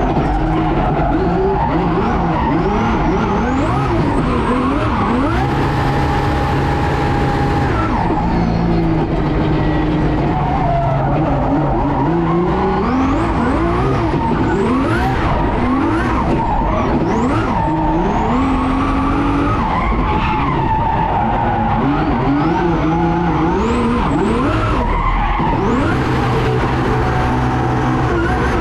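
Twin-turbo Ferrari F12's V12 engine driven hard, its pitch climbing and dropping many times through revs and gear changes, with tyres squealing.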